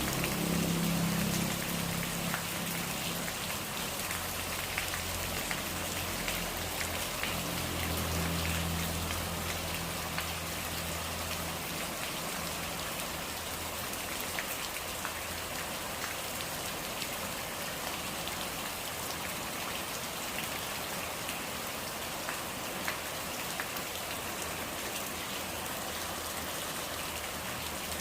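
Steady rain falling, with scattered individual drops ticking sharply on a surface. A low rumble underneath fades out about twelve seconds in.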